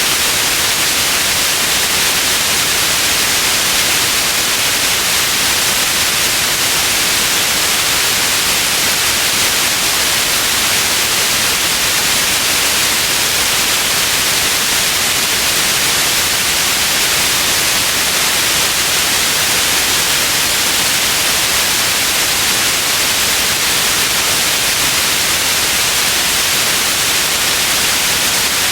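Steady, unbroken white noise: an even hiss with most of its energy in the upper range.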